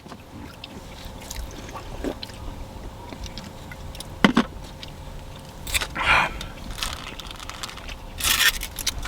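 People eating tacos close to the microphone: scattered short crunches, bites and scrapes over a low background rumble.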